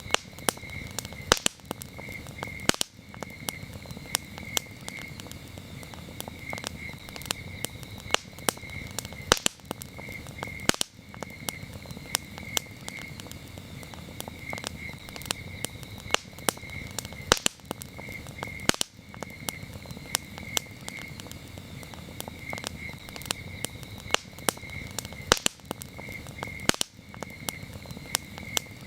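Wood campfire crackling, with frequent sharp pops and snaps over a low steady rush. Crickets chirp throughout in a steady, quickly pulsing high trill.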